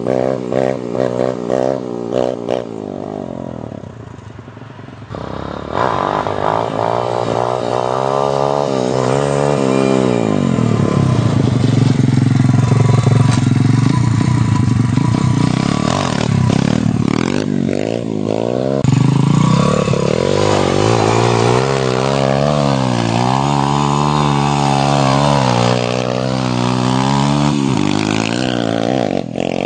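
125 cc dirt bike engine running and revving, its pitch climbing and dropping again and again as the bike accelerates, shifts and backs off. It drops lower for a couple of seconds about four seconds in, then rises again.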